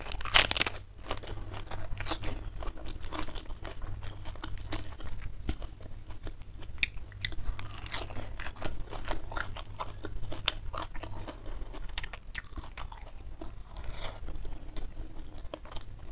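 Close-miked crunchy bites into a raw cabbage leaf, loudest in the first second, followed by steady chewing with many small crunches and wet mouth clicks.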